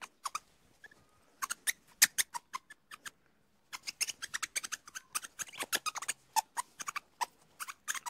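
Ring-tailed lemur making rapid, irregular short clicks and chirps, with a brief pause in the middle.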